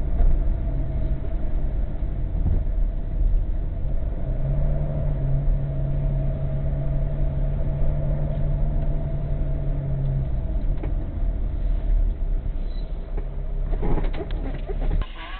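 A car running, engine and road noise heard from inside the cabin as a steady low rumble with a hum. Near the end comes a short burst of clicks and rattles.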